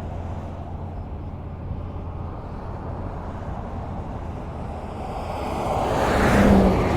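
Highway traffic: a steady road rumble from cars. About six seconds in, a vehicle passes close, swelling to a peak and then fading.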